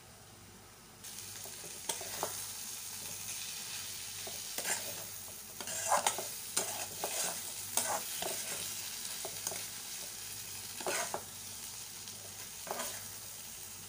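Chana masala (chickpeas with onion and masala) sizzling in a metal wok while a spatula stirs it, scraping and knocking against the pan. The frying hiss starts about a second in, and the spatula strokes come in quick runs, loudest a little past the middle.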